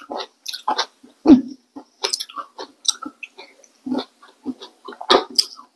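Close-miked chewing and crunching of crisp snack food, in irregular crunches with a louder one about a second in and another near the end.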